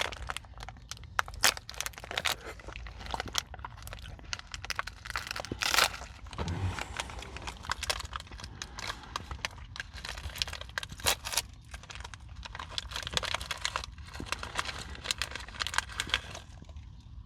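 Close-miked chewing of a crunchy Nature Valley granola bar coated in yogurt: dense, irregular crackling crunches, with a louder crunch about six seconds in.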